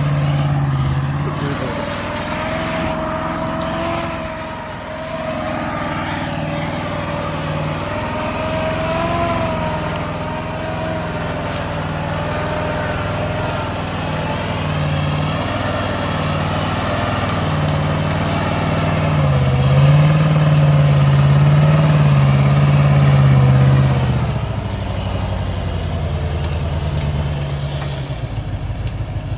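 GAZ-66 truck's V8 petrol engine running, with a wavering high whine over the engine note. It grows louder about twenty seconds in, then eases off about five seconds before the end.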